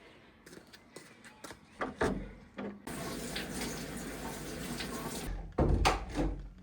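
A few scattered knocks and clicks, then a steady stream of liquid pouring for about two and a half seconds, then several loud dull thumps near the end.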